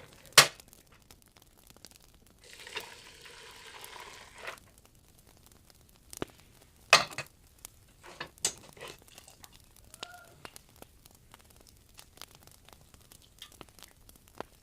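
Boiled mung bean sprouts being drained in a sieve: a rush of water for about two seconds, with several sharp clicks and knocks of the sieve and bowl.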